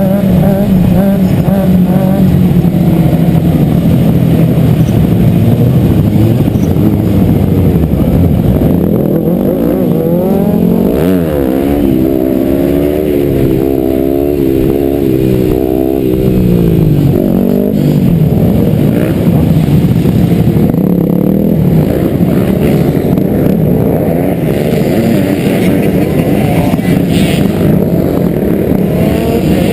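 Dirt bike engines running and revving, the pitch rising and falling, with a stretch of quick up-and-down revving about halfway through.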